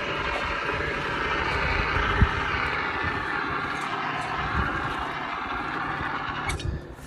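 Hand-held fire extinguisher discharging in a steady hiss, cutting off suddenly near the end, with a single knock about two seconds in.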